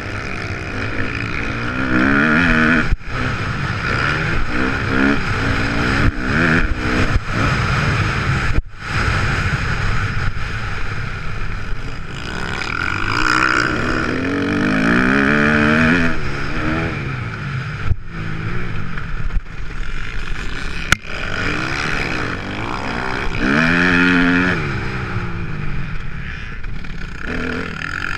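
Kawasaki KX250F four-stroke single-cylinder motocross engine on track, its revs rising and falling again and again as the throttle is opened and shut, with a few sharp, brief breaks in the sound.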